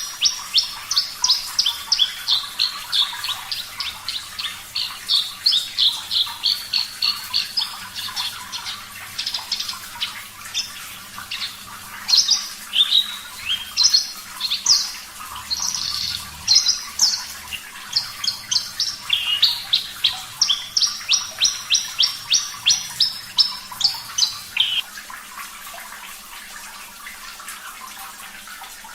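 Javan bush lark (branjangan) singing a fast run of clear, high chirps and trills, about three to four notes a second, in phrases broken by short pauses. The song stops about 25 seconds in, leaving a faint running-water sound.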